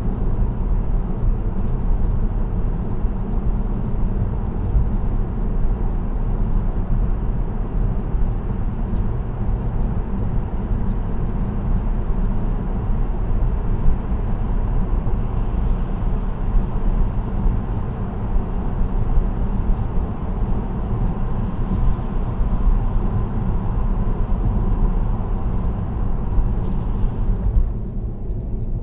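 Steady road and tyre noise with a low rumble from a car cruising on an expressway, heard from inside the cabin through a dashcam. About a second before the end the higher hiss drops away suddenly, leaving mostly the low rumble.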